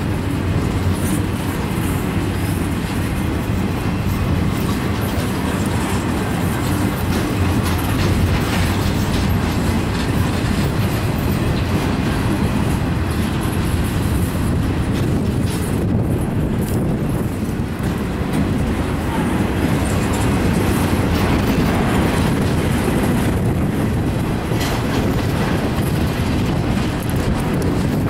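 Empty intermodal well cars and flatcars of a Norfolk Southern freight train rolling past: a steady rumble of steel wheels on the rails, with occasional clicks over rail joints.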